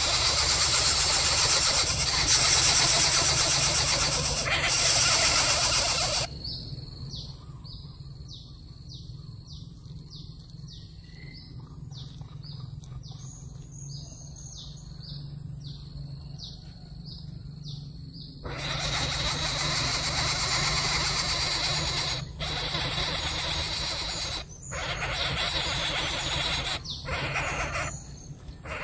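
Loud rough noise that stops after about six seconds and returns in the last third. Between the two stretches, a small bird repeats short high chirps, about one or two a second, for around twelve seconds.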